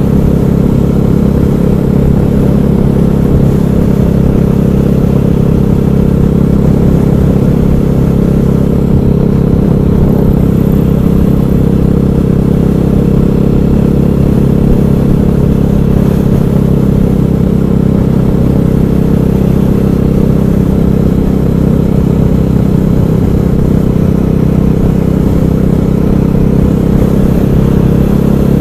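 KTM 500 EXC supermoto's single-cylinder four-stroke engine running at a steady speed under way, its pitch holding nearly level throughout.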